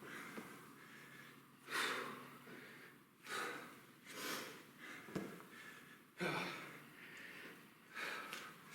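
A man breathing hard through heavy exertion during a kettlebell lunge-and-halo set, five forceful breaths spaced a second or two apart. A single light knock about five seconds in.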